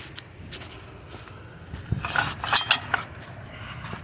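Steel jack stands being handled and set under a truck frame: a run of metal clinks and clanks, busiest and loudest about two to three seconds in, some with a short metallic ring.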